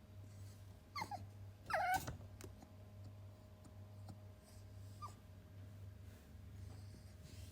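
Shiba Inu puppy whimpering: three short high whines that fall in pitch, one about a second in, a louder one just before two seconds, and a brief one about five seconds in. The puppy is crying to be let out of its cage.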